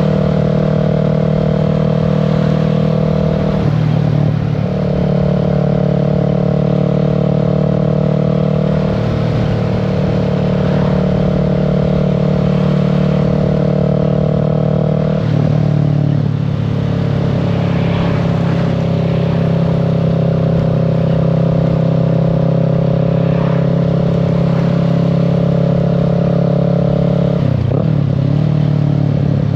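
Kawasaki Z650's parallel-twin engine running steadily at cruising revs, heard from the rider's seat. Its note breaks briefly and shifts pitch about four, fifteen and twenty-eight seconds in.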